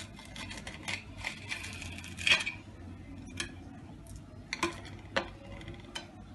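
Metal kitchenware being handled: a string of sharp clinks and knocks of pan, lid plate and utensils, about eight of them, the loudest a little over two seconds in.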